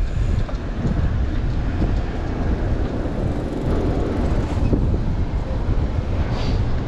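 Strong gusty wind buffeting a chest-mounted camera's microphone on a moving bicycle, a loud steady low rumble with traffic noise under it.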